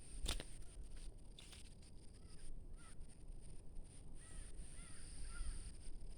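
Tropical forest ambience: birds give short curling chirps in two spells, over a steady high insect drone. A single sharp tap, like a footstep, comes just after the start.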